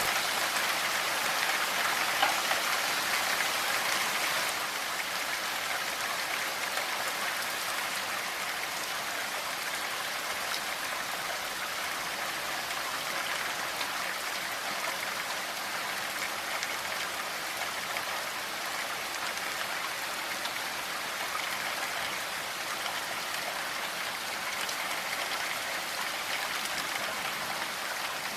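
Steady rain falling, an even patter of drops on a surface with no thunder.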